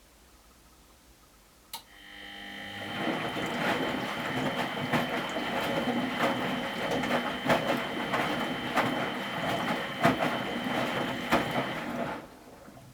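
Miele Professional WS 5426 washing machine: a relay clicks, then the drum motor starts and the drum turns for about ten seconds with a steady whine and irregular knocks of tumbling laundry, before stopping suddenly.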